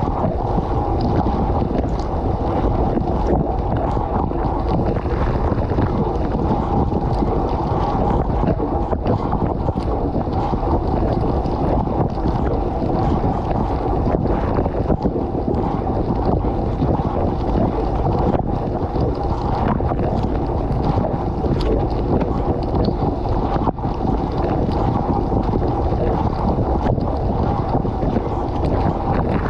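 Water spraying and splashing inside a running dishwasher, recorded from inside the tub: a loud, steady, muffled wash with faint scattered ticks of drops hitting.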